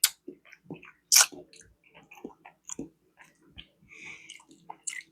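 Close-miked chewing of a mouthful of food, with wet lip smacks and mouth clicks at irregular intervals.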